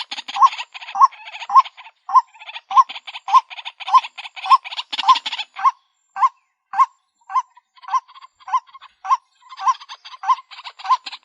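White-breasted waterhen calling: a loud call note repeated about twice a second, with a fast rattling chatter between the notes that thins out about halfway through.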